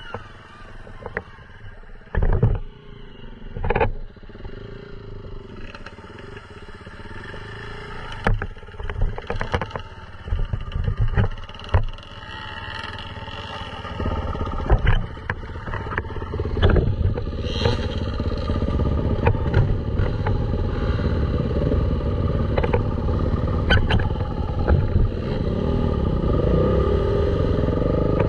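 Dirt bike engine running with its pitch wavering, broken by frequent sharp knocks and clatter, growing louder and steadier over the second half.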